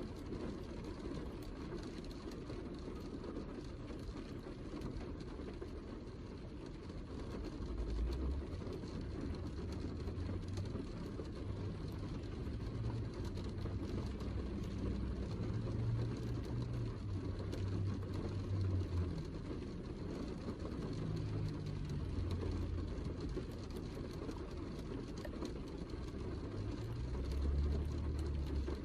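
Heavy rain falling steadily, with low rumbles that come and go from about a quarter of the way in.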